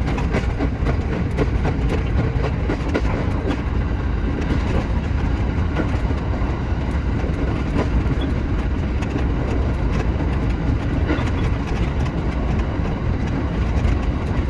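Shinano Railway SR1 series electric train running on the line, heard from on board: a steady low rumble of wheels on rail with frequent small clicks and knocks from the track.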